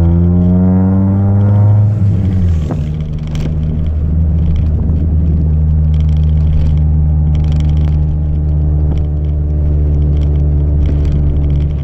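Chevrolet Celta 1.0 four-cylinder engine through a 4-into-1 header and a straight two-inch exhaust with no mufflers. The revs climb for about two seconds, drop sharply, then hold a steady note.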